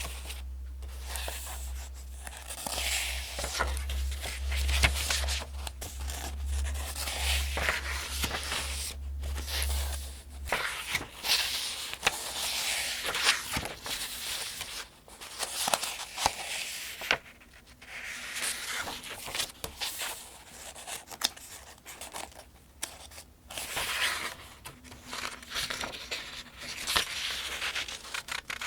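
Pages of a paperback almanac being turned one by one, each turn a papery swish and rustle, repeating at a steady, even pace.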